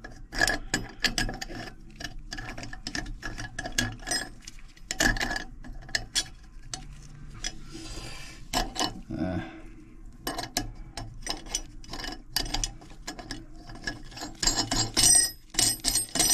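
Irregular rapid clicking and clinking of small metal faucet hardware being handled and fitted into place during faucet reinstallation, with a short scrape about eight seconds in.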